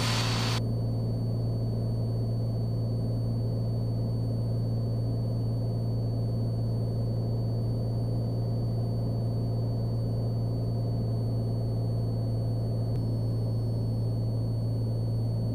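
Cessna Skylane's piston engine and propeller droning steadily in flight, a constant low hum that does not change.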